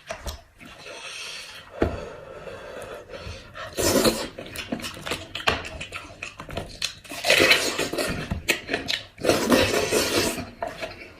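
Eating sounds from gnawing and chewing goat head meat: irregular clicks, scrapes and rubbing noises, with louder bursts about four, seven and ten seconds in.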